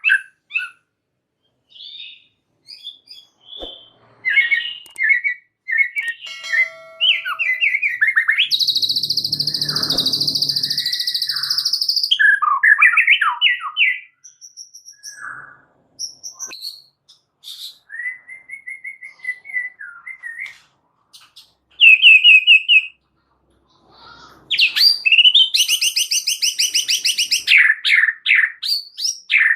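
White-rumped shama singing a varied, chattering song of quick whistled phrases, trills and slurred notes. Two long harsh buzzing rattles come in, one about nine seconds in and one in the last five seconds.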